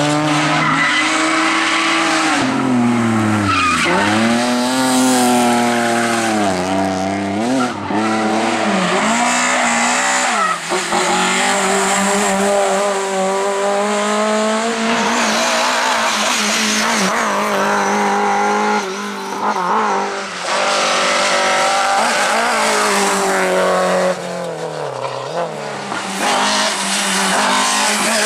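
Rally car engine driven hard at high revs, its pitch dropping sharply and climbing again several times as the driver lifts and shifts, then held high. Tyres skid and squeal over it.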